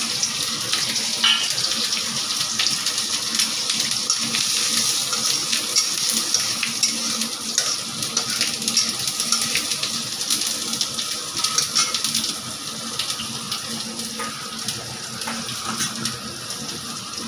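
Green chillies and tempering seeds sizzling in hot mustard oil in a kadai, a steady hiss with many small pops and crackles that eases off in the second half.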